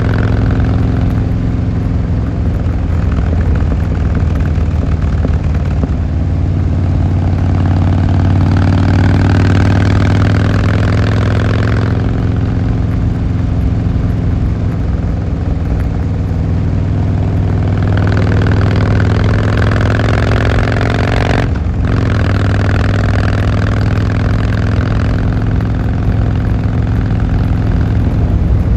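Harley-Davidson Fat Boy Lo's V-twin engine running steadily, its pitch drifting slowly up and down, with a brief break in the sound about 21 seconds in.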